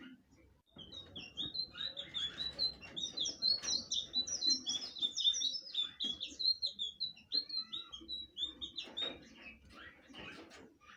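Blue flycatcher (sikatan biru) singing a fast, varied run of short high notes for about seven seconds, then a few scattered calls near the end.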